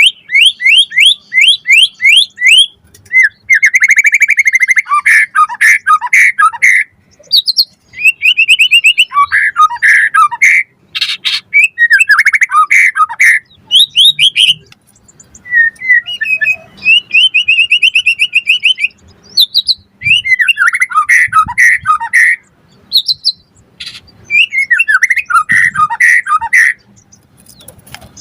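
White-rumped shama (murai batu) singing loudly in varied, rich phrases with short pauses between them. The song opens with a fast run of repeated rising notes.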